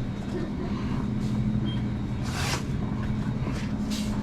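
A steady low machine hum, with a short hiss about two and a half seconds in and a fainter one near the end.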